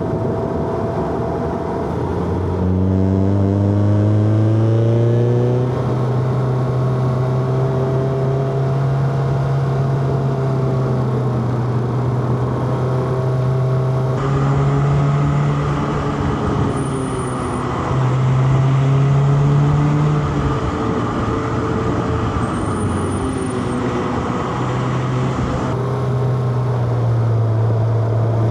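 Inline-four car engine under way on a winding mountain road, heard from on board. The engine note climbs about three seconds in, then holds with small rises and dips as the throttle changes, and two brief high squeaks come in the middle.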